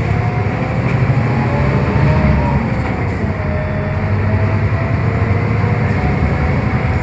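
Scania K320UB hybrid bus driving along, heard from inside the cabin: a steady low drivetrain rumble with thin whining tones that slowly glide up and down as the speed changes.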